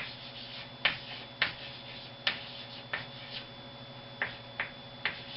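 Writing on a board: about ten sharp, irregular taps and short strokes as a word's letters are put down, over a faint steady electrical hum.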